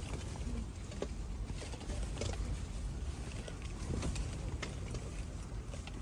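Wind buffeting the microphone in a low, steady rumble, with scattered light clicks and knocks.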